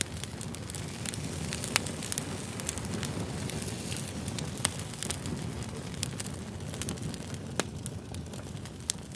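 Fire crackling: a steady hiss and low rumble broken by several sharp pops and snaps.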